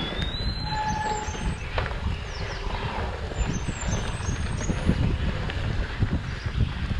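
Mountain bike ridden over rough trail: a steady low rumble of wind and tyres with frequent knocks and rattles from the bike.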